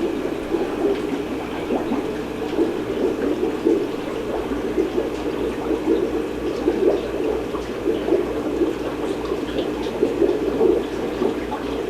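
Steady bubbling and splashing of water from aquarium filtration in a room full of tanks.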